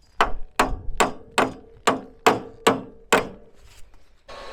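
Eight sharp knocks with a short ring, about two a second, struck on something hard. Near the end a hair dryer switches on and runs steadily, blowing on a frozen livestock waterer nipple to thaw it.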